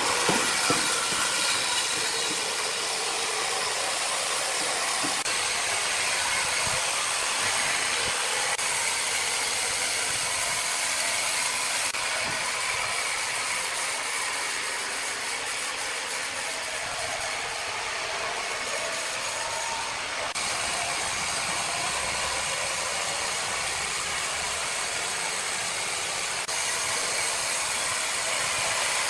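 Sawmill machinery running with a steady, mostly high-pitched noise.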